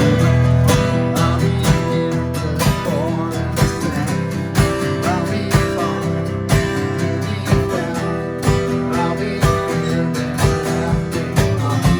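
Strummed acoustic guitar music, with a sharp accent about once a second.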